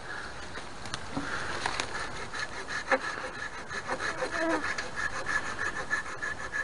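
Hand saw cutting into a standing dead pine in quick, even back-and-forth strokes, starting about a second in. It is a test cut to look for resinous fatwood in the trunk.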